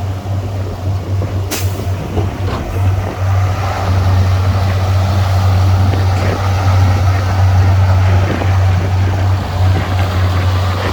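Heavy diesel engine of earthmoving machinery running with a strong steady low hum and working harder from about four seconds in, with a sharp metallic click about a second and a half in.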